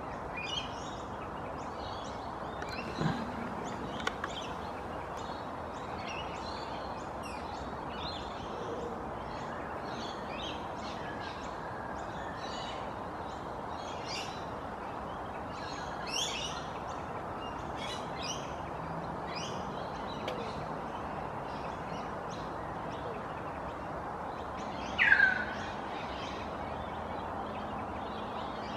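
Small birds chirping in many short high notes over a steady background hiss, with a low thump about 3 seconds in and one louder, short falling call near the end.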